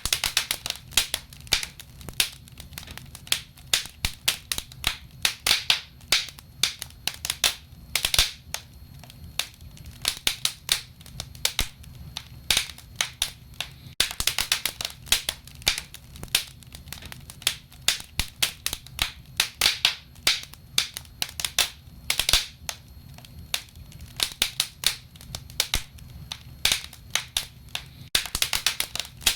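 Wood fire crackling: a dense, irregular run of sharp pops and snaps over a faint low rumble.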